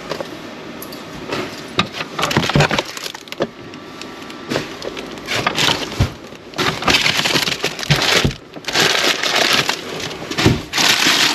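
Rummaging through discarded packaged food: plastic wrappers and bags crackling and rustling, with irregular clicks and knocks as containers are handled and moved.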